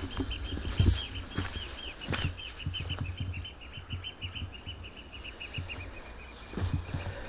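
A bird calling a long, rapid series of short, evenly repeated notes that stops near the end, over footsteps and low thumps, the loudest thump about a second in.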